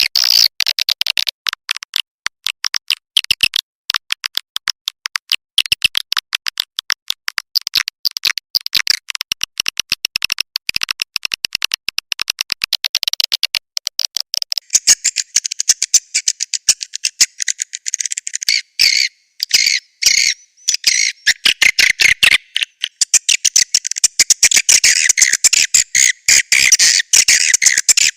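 Swiftlet lure call: a rapid, continuous stream of short high chirps and twitters from swiftlets, played as a call sound to attract the birds to a nesting house. About halfway through, the chirping becomes denser and fuller.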